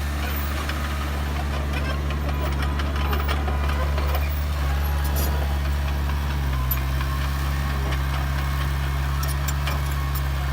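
Heavy diesel engine of an earthmoving machine running steadily, its pitch dropping slightly about six and a half seconds in, with a few light clicks over it.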